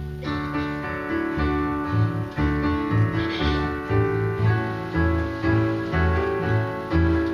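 Instrumental music played on a keyboard with a piano sound, a bass line moving in steady steps under held chords.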